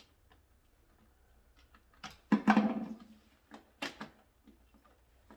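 Scattered clicks and knocks of tools and parts being handled during wiring work, with one louder, short clatter about two and a half seconds in and a sharp click near four seconds.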